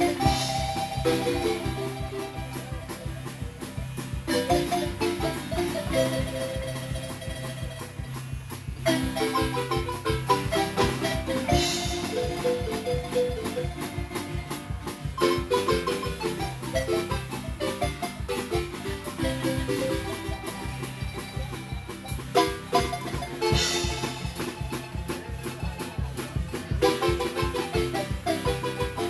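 Marimba band playing an upbeat dance tune: quick runs of wooden-bar notes over a steady low bass beat, with a short break a little before the ten-second mark before the tune picks up again.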